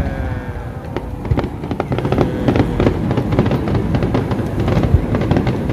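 Aerial fireworks going off: a dense run of sharp crackling pops over a low rumble, with a few heavier bangs scattered through. The crackling thickens after about a second and a half.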